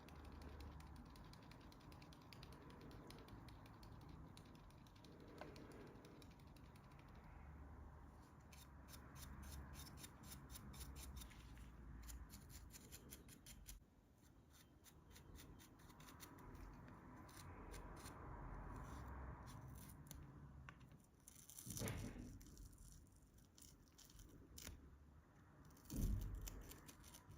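Faint hand-work sounds: runs of quick clicks and a light rustle, with two soft thumps near the end.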